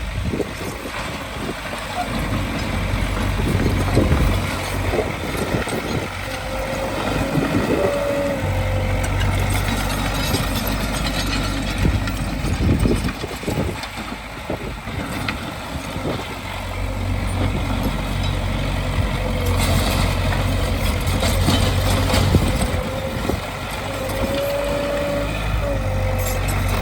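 Heavy diesel earthmoving machinery, a bulldozer and dump trucks, running and working, with the engine note rising and falling under load. A few short squeals sound over it, once about a quarter of the way in and again near the end.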